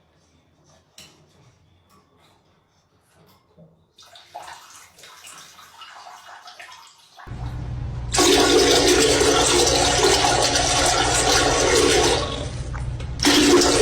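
Loud rushing water. It starts with a low rumble about seven seconds in, is strongest from about eight to twelve seconds, then tails off.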